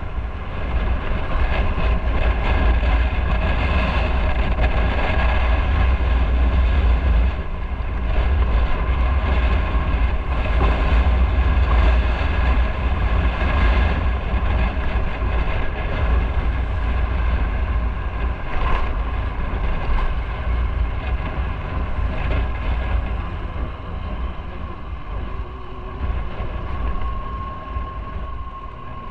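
Motorcycle riding along a road: the engine runs steadily over a heavy low rumble of wind and road noise, growing a little quieter over the last few seconds.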